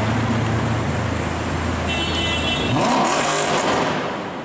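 Mercedes C63 AMG V8 engine and exhaust running at a low steady note, then revved about three seconds in, the pitch climbing sharply before the sound drops away near the end.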